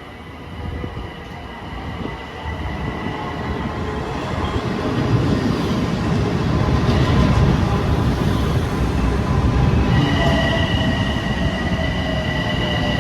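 Long Island Rail Road train rolling through, the rumble of its wheels on the rails growing louder over the first few seconds and then holding steady. About ten seconds in, a high, steady wheel squeal sets in.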